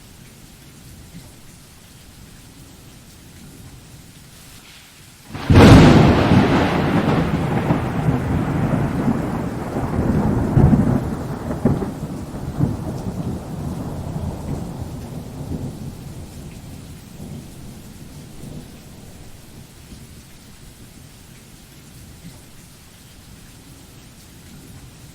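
Steady rain falling, then a loud thunderclap about five seconds in: a sudden crack that rolls into a long rumble and dies away over about ten seconds, leaving the rain hiss.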